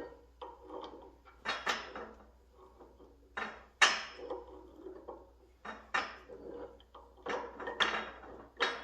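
Hand tools clanking and knocking against the steel parts of a hydraulic cylinder: about a dozen irregular sharp metallic knocks, some ringing briefly.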